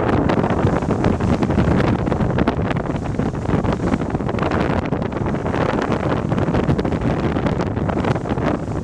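Strong wind buffeting the microphone on a sailing yacht heading into the wind: a loud, steady rush and rumble.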